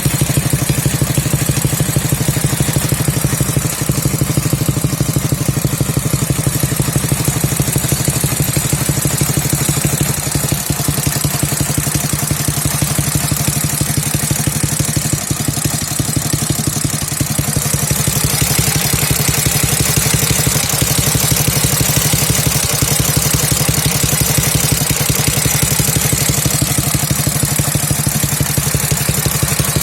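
Dnepr MT11 flat-twin motorcycle engine running steadily at idle during its running-in, with an even, rapid firing beat; from a little past halfway a higher hiss rises over it.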